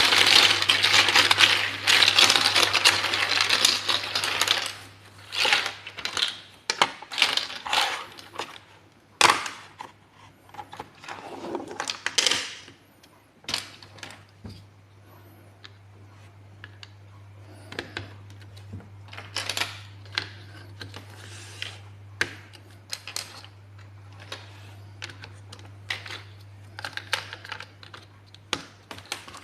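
Small plastic building-block pieces clattering densely for about four seconds, then scattered clicks and taps as pieces are handled one by one. A steady low hum runs underneath.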